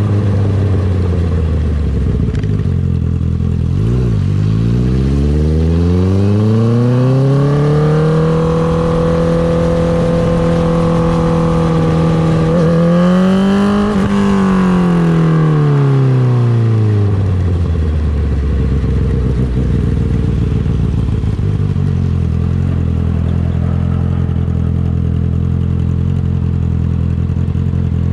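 2019 Honda CB650R's inline-four through an Akrapovic Racing Line titanium exhaust. The engine drops back near the start, then pulls up in one smooth rising pitch and holds a steady cruise. Near the middle it rises briefly, then winds down as the bike slows, and settles into a low steady idle for the last ten seconds.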